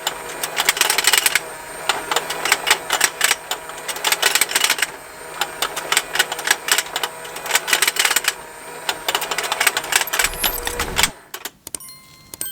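Plastic fishing game toy running: its small motor hums while the rotating pond and the snapping fish mouths make a continuous, irregular rapid clicking. About eleven seconds in the clicking stops as the motor winds down, leaving a few scattered clicks.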